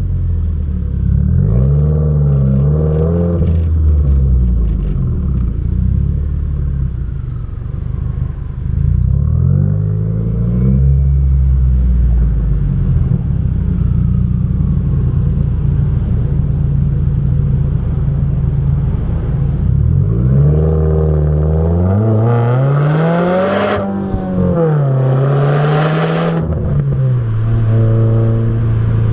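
2015 Subaru WRX's turbocharged flat-four exhaust on the move, its pitch climbing and dropping through several shifts, over a steady low rumble of road noise. Near the end come two harder pulls to higher revs, then the pitch holds steady.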